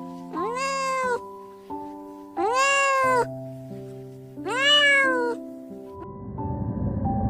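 A cat meowing three times, about two seconds apart, each call rising and then falling in pitch, the last the loudest, over background music of held notes.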